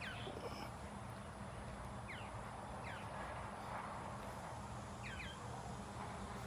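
Birds calling: a few short, quickly falling chirps, some in pairs, a second or two apart, over a steady low background hum.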